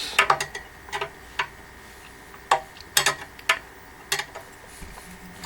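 Flat-head screwdriver working a screw into the printer stand's steel support: a string of sharp, irregular metal clicks and taps.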